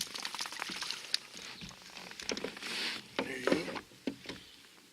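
Irregular light taps, clicks and rustles of handling as a just-caught crappie is dealt with in a kayak, with a brief hiss-like rustle near the middle.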